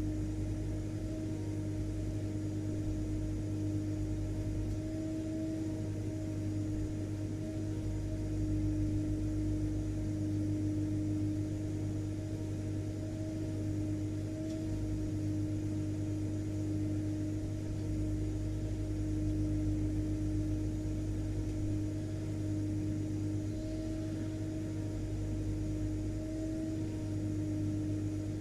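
Vacuum cleaner motor running steadily: an even rushing noise with a constant hum and a steady mid-pitched whine, unchanging throughout.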